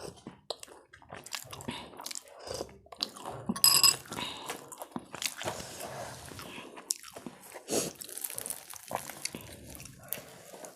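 A person eating, with irregular biting and chewing sounds. A brief ringing clink comes about four seconds in.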